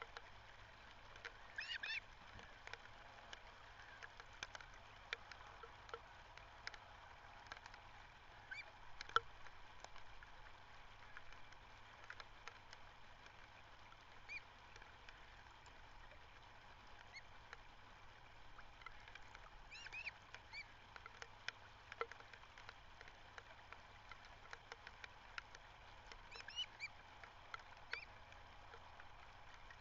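Faint bird calls: short high calls in little clusters every few seconds, with scattered faint clicks over a steady low hiss.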